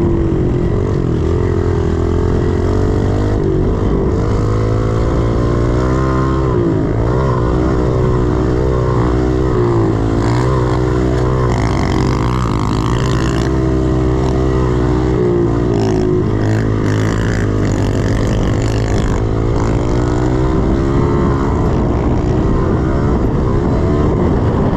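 110cc pit bike's single-cylinder four-stroke engine under riding, its pitch rising and falling over and over as the throttle is opened and closed around the track.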